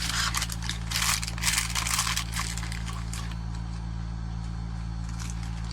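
Small plastic toys and packaging being handled: short bursts of rustling and scraping for about the first two seconds and again near the end, over a steady low hum.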